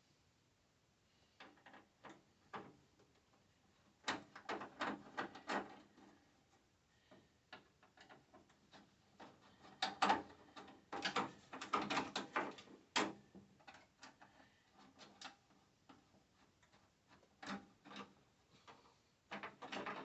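Hand tools and small hardware being handled: scattered clicks and rattles in three bursts, about four, ten and eighteen seconds in, with quiet in between.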